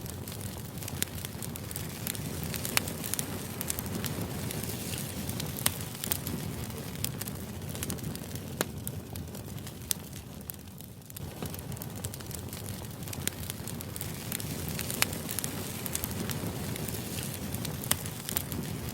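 Crackling fire ambience: a steady low rush with sharp, irregular pops and snaps, briefly dipping about a third of the way through.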